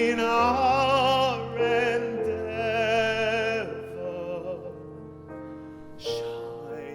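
A singer with strong vibrato holds long notes over piano accompaniment with sustained bass notes. The singing eases off after about four seconds, and a new held note comes in near the end.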